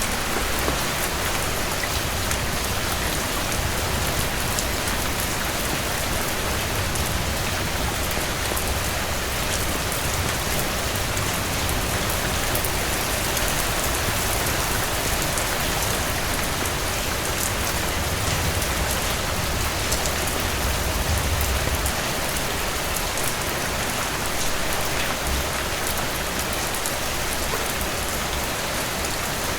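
Heavy rain falling steadily, a dense even hiss with a low rumble underneath and scattered faint ticks.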